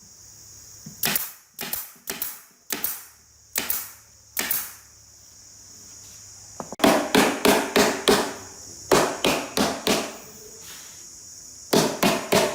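A series of sharp knocks or strikes, like hammering. First come single blows about every half second, then a quicker run of three or four a second in the middle, then a few more blows near the end.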